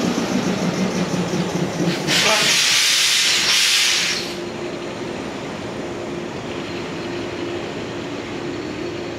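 Yellow electric train moving slowly alongside the platform, with a loud hiss of compressed air about two seconds in that lasts roughly two seconds in two close spurts, typical of air brakes releasing. A steady low hum from the train runs under it.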